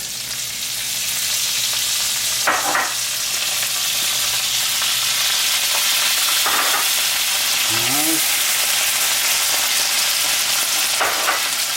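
Sun-dried tomatoes, olives, capers and artichoke hearts sizzling in hot olive oil and butter in a pan. The sizzle is steady and grows a little louder over the first couple of seconds.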